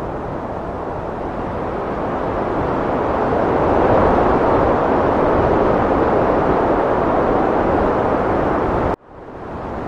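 Heavy wind blowing in a steady rush that swells to a stronger gust about four seconds in and eases slightly. Near the end it cuts out abruptly and fades back up.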